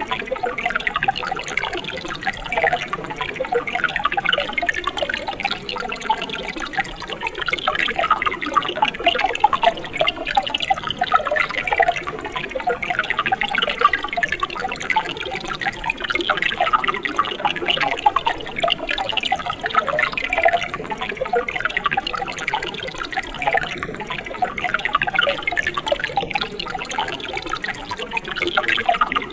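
Mountain stream water running and splashing over rocks in a steady, bubbling babble with many small drips and gurgles.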